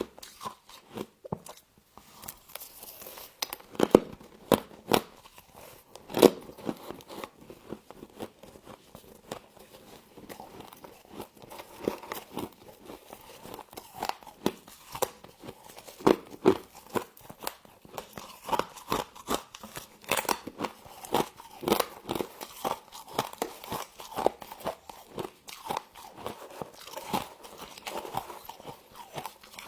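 Close-up crunching as a person bites and chews humidifier frost: a dense, irregular run of sharp crunches with a few louder bites among them.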